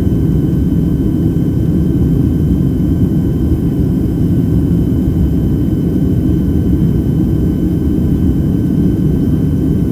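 Steady cabin noise of a Boeing 767-300ER airliner in flight: an even low rumble of engines and airflow, with two faint steady high tones above it.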